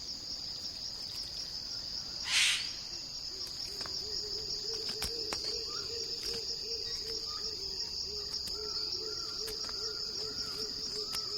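Forest ambience: a steady high-pitched insect chorus, with a short rasping burst about two seconds in. From about three and a half seconds a low call of quick hooting notes repeats, roughly three a second.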